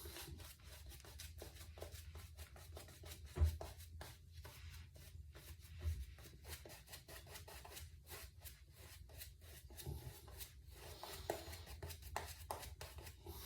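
Synthetic shaving brush swirling shave soap into a lather: a faint, quick, wet brushing rub of many small strokes. Two soft low thumps come about three and a half and six seconds in.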